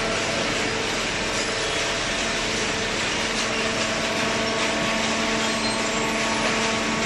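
Hydraulic cardboard baler running: a steady machine hum of several fixed tones over a constant rush of noise, unchanging throughout.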